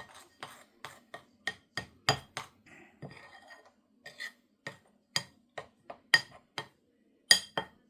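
A spoon stirring a spice mix in a small container, clinking against its sides in quick uneven taps, about two to three a second, with a short scraping stir about three seconds in.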